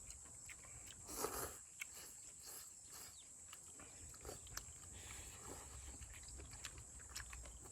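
Faint eating sounds: noodles and stew being slurped and chewed, with scattered light clicks of chopsticks and spoons, the loudest slurp about a second in.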